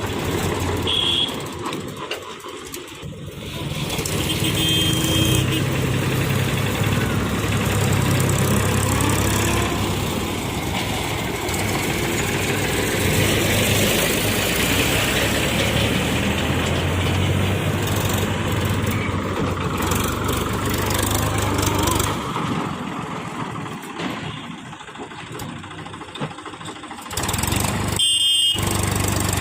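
Heavy diesel engines of a backhoe loader and tractor running at work, rising and falling with load, easing off for a few seconds near the end. A few short, high beeps sound over the engines.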